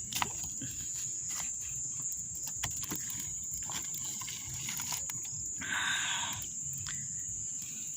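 Steady high-pitched insect chorus, with scattered clicks and a short hiss about six seconds in.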